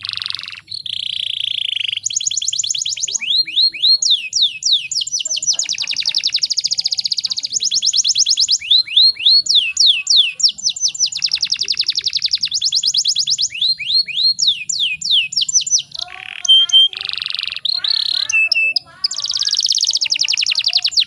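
Domestic canary singing: long phrases of fast repeated notes and rapid rolling trills of downward-sweeping notes, with brief breaks between phrases.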